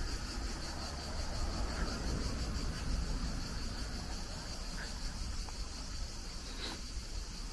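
Insects chirring steadily in a high, finely pulsing buzz over a low rumble, with one short click about two-thirds of the way through.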